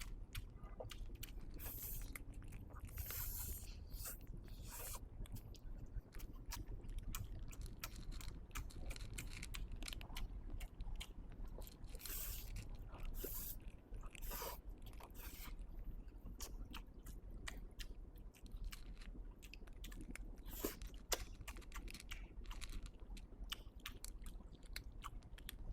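Close-miked mukbang eating sounds: a person chewing a mouthful of black bean sauce mixed noodles, with many small wet clicks and smacks throughout.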